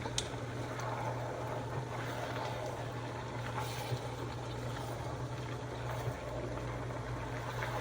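A steady low hum under an even hiss, with a few faint light clicks.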